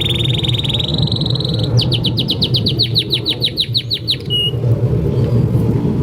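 Domestic canary singing: a fast, high trill, then a slower run of quick downward-sweeping notes, about seven a second, ending in a short held note, over a steady low rumble.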